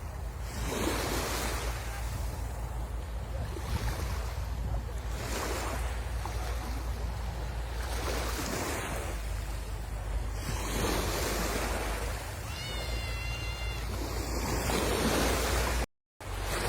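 Sea waves breaking and washing up on the shore, a swell of surf about every two and a half seconds, over a steady low rumble of wind on the microphone. The sound cuts out completely for a moment near the end.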